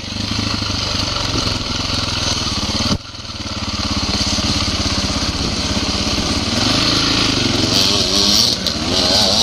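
Dirt bike engine running under throttle on a trail ride. It drops off sharply about three seconds in, then climbs back, and its pitch rises and falls near the end as the throttle is worked.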